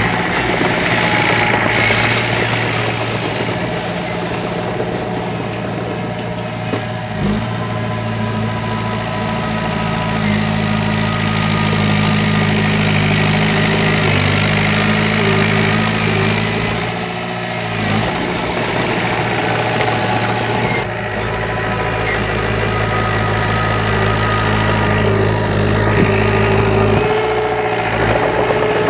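Heavy diesel engine of earthmoving machinery running steadily: a low engine drone with a rough, noisy clatter over it. The engine note shifts slightly a couple of times.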